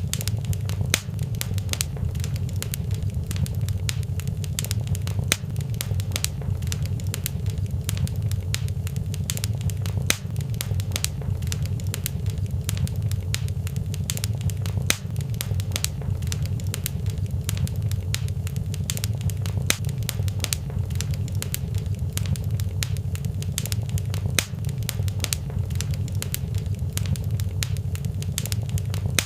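Fireplace fire crackling: frequent sharp, irregular pops and snaps over a steady low rumble of the flames.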